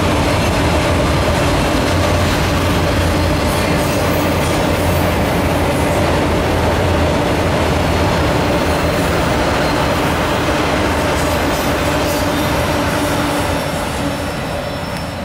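Freight train of autorack cars rolling past: a steady rumble of steel wheels on rail with a steady droning tone over it, dropping away near the end as the last car goes by.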